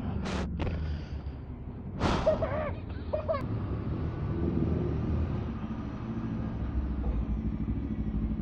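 Motorcycle engine running steadily with a low rumble. Short hissing bursts come at the start and again about two seconds in.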